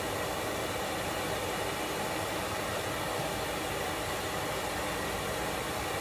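Blacksmith's forge running: a steady rushing noise of air and flame while the steel is reheated.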